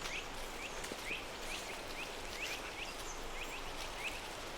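Forest ambience: a steady hiss with a small bird chirping over and over, short quick calls about two or three a second.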